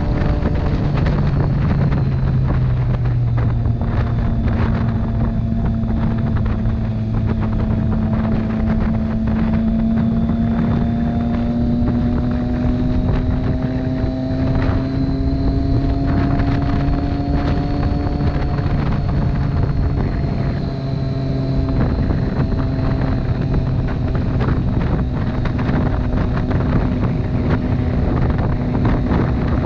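Motorcycle engine running steadily while riding, its pitch climbing slowly through the middle and easing back about two-thirds of the way in, with wind rushing over the microphone.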